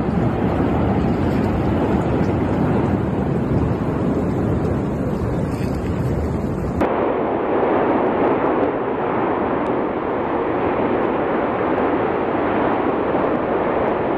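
Continuous rumbling roar of an erupting volcano, dense and unbroken. About seven seconds in, it cuts abruptly to a duller-sounding recording of the same roar.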